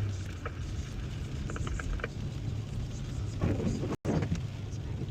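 Inside a moving car: a steady low rumble of engine and road noise, with faint snatches of a voice. The sound drops out for an instant about four seconds in.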